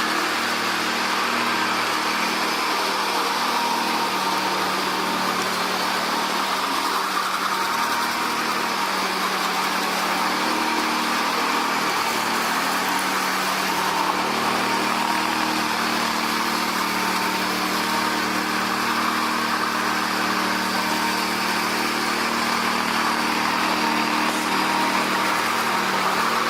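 An engine running steadily at an even pitch and level, with no revving.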